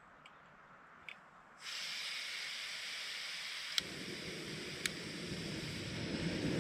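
Portable gas camp stove: a steady hiss of gas starts suddenly about a second and a half in. A sharp click comes near four seconds in as the burner lights and a deeper rushing flame sound joins the hiss, with another click about a second later.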